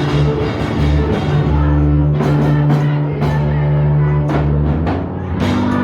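Band music with drum kit and guitar, with long-held bass notes and cymbal and drum hits every half second to a second.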